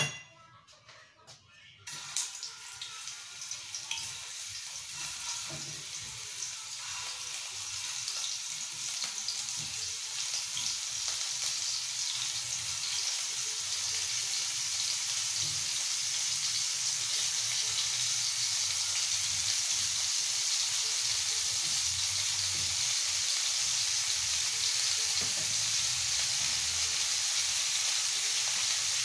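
Raw ground-meat meatballs sizzling in hot oil in a frying pan as they are dropped in one by one. The sizzle starts suddenly about two seconds in and grows steadily louder as more meatballs go into the pan.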